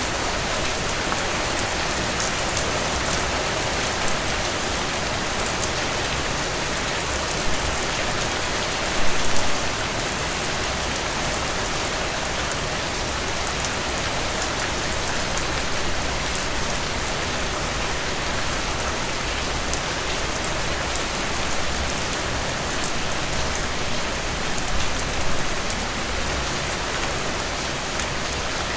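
Steady rainfall: an even hiss of rain with individual drops clicking, and brief louder swells about nine seconds in and again near the end.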